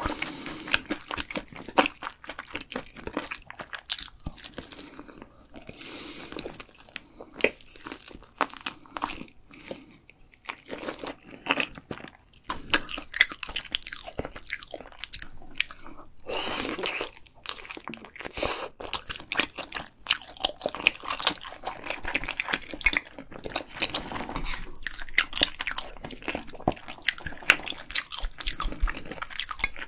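Close-miked eating: crisp crunching bites and chewing of sauce-coated fried food, with irregular sharp crackles throughout.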